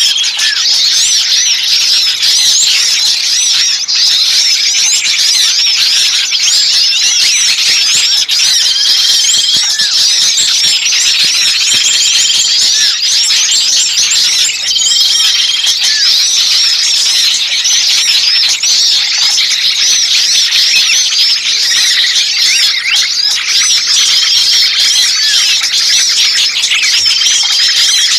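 A dense, loud chorus of many small songbirds calling all at once: rapid high chirps and trills overlap without a break, and a short level whistled note repeats every few seconds. It is a lure recording of agitated small birds, made to sound like a caught bird and an alarmed flock.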